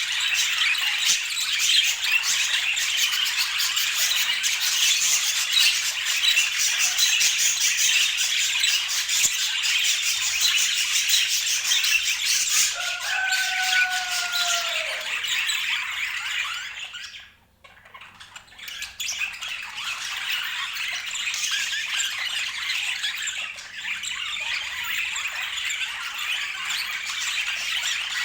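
Budgerigars chattering and warbling in a dense, continuous stream of high chirps and squawks. There is one longer arching whistle about halfway through, and the chatter drops out for about a second shortly after.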